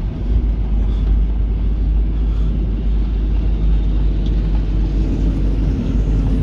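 Heavy farm vehicle running steadily, a deep, even engine rumble with no change in pace.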